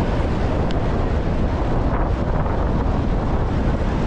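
Steady wind rumbling on an action camera's microphone while riding a bicycle, with a brief faint high chirp just under a second in.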